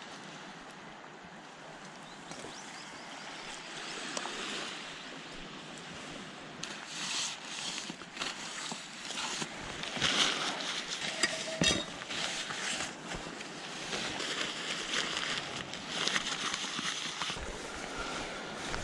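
Sea waves washing on the shore in a steady rush, with scattered short clicks and knocks over it, the loudest around the middle.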